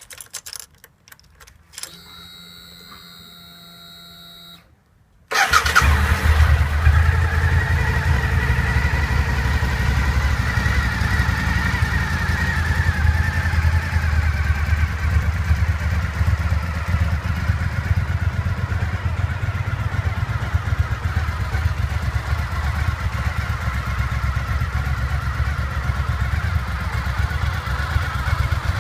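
Suzuki SV1000S 90-degree V-twin engine: a few clicks and a faint steady hum, then it starts about five seconds in and settles into a steady idle.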